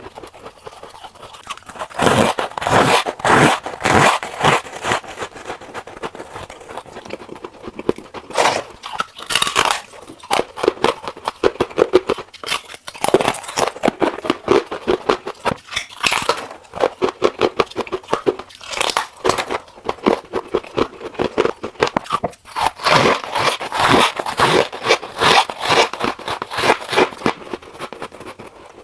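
Close-up crunching and chewing of soft freezer frost scraped from a refrigerator, bitten off in repeated bouts of dense crackling with short pauses between them.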